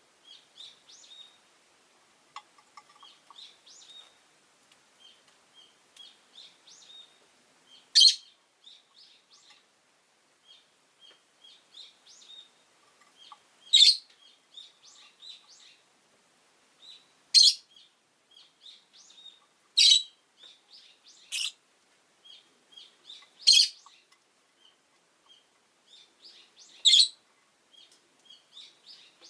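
Rosy-faced lovebirds chirping: a continual soft twittering of short chirps, broken every few seconds by a loud, high call, about seven in all.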